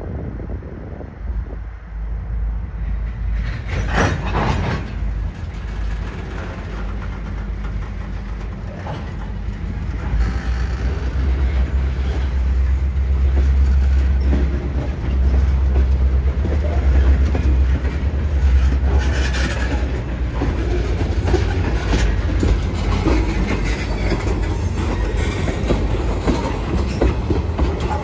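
A diesel freight locomotive works a switching move with its cars. The engine's low rumble grows louder about ten seconds in, and rolling freight cars rattle and click on the rails. There is a brief sharp noise about four seconds in.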